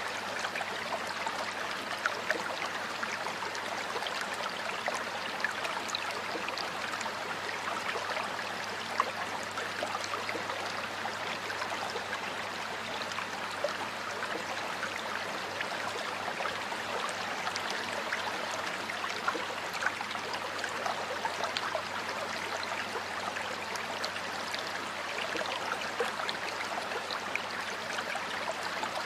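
A stream of water flowing steadily, with many brief small splashes through the even rush.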